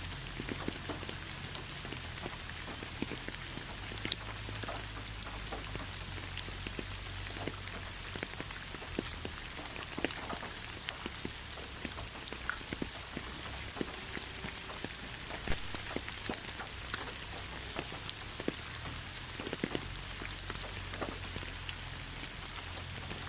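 Steady rain, an even hiss dotted with many single drops ticking on a hard surface, over a steady low hum.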